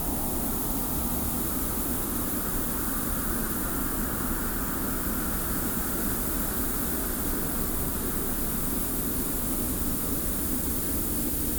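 Steady desert wind with a hiss of blown sand over a low rumble. A higher rushing gust swells in the middle and dies back toward the end.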